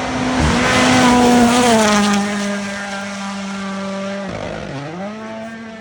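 Rally car's 1.6-litre turbocharged four-cylinder engine driven hard past the listener: a loud, high, steady engine note that drops in pitch about two seconds in as the car goes by. Near the end the note dips briefly and climbs again, a lift off the throttle and back on.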